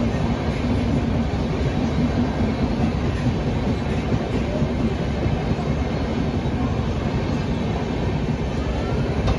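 Indian Railways passenger train passing at speed: a steady, loud rumble of coaches and wheels on the rails.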